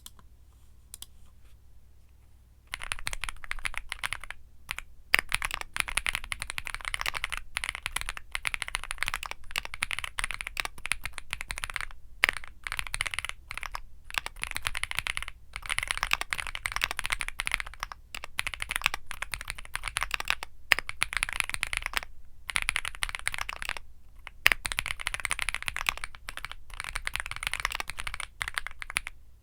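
Fast typing on a Womier SK75 mechanical keyboard with Womier Mint Blizzard switches: a few isolated keystrokes, then from about three seconds in a dense run of rapid key clicks broken by brief pauses every few seconds.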